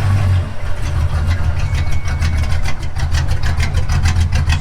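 Car engine idling with a loud, low exhaust rumble that pulses evenly, about six beats a second.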